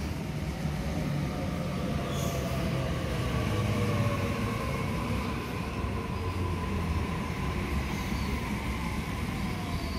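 Sydney Trains electric suburban train slowing alongside the platform: a low rumble, with a motor whine that falls steadily in pitch as the train decelerates.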